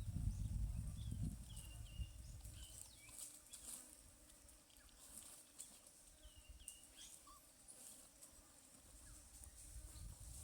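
Short, high-pitched animal calls, repeated in clusters, mostly in the first half, with faint clicks and a low rumble in the first second or so.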